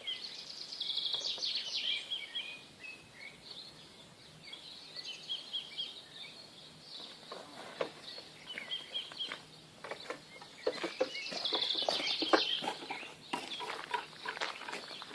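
Birds chirping and singing in bursts of rapid high notes, loudest near the start and again about three-quarters of the way through, with scattered clicks and knocks from about halfway on.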